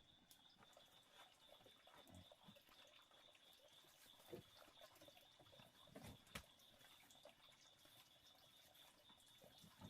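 Very faint night ambience: a steady high-pitched drone with scattered faint clicks and drips, and a few soft knocks about four and six seconds in.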